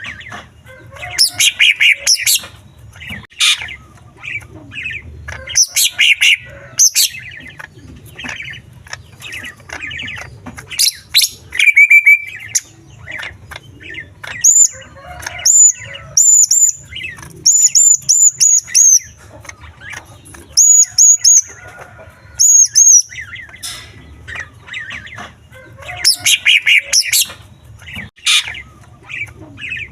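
Male greater green leafbird (cucak ijo) singing a rapid, varied song of chirps and twittering mimicked small-bird phrases. Through the middle it repeats a run of high, hooked whistles before returning to dense chirping.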